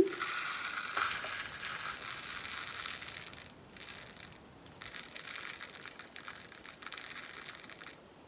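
Diamond painting drills poured slowly from a small plastic bag into a storage pot: a steady rattling trickle, strongest for the first three seconds, then fainter and patchy.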